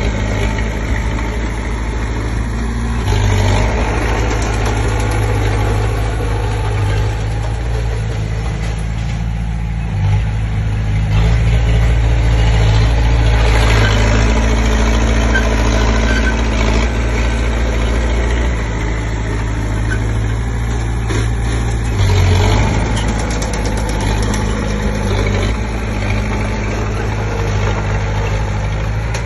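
Diesel engine of a Komatsu D20P bulldozer running steadily, getting louder for several seconds around the middle as it works under load.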